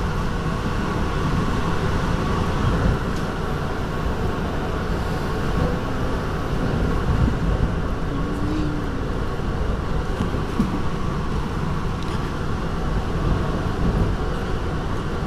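Steady rumble of an NJ Transit Comet IV passenger car rolling at speed, its wheels running on the rails, heard from inside the car.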